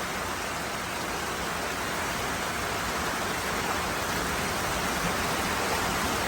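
Heavy rain pouring down in a steady, dense hiss, slowly growing a little louder.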